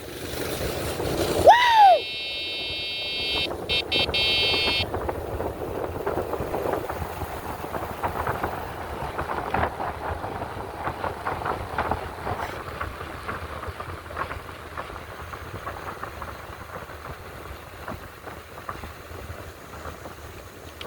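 Small bikes riding: motor and road noise, steady with scattered rattles. There is a short rising-and-falling squeal near the start, then a high steady whine for about three seconds.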